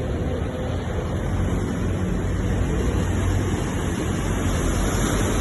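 Ocean waves breaking and washing on a shore: a continuous rush of surf with a low rumble underneath.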